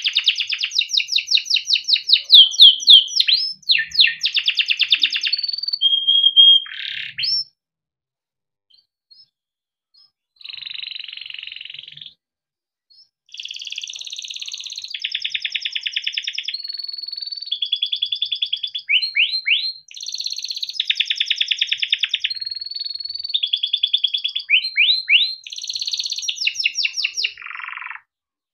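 Yellow canary singing, long phrases of fast rolling trills and repeated chirps, broken by a pause of about three seconds a quarter of the way in and a short pause soon after.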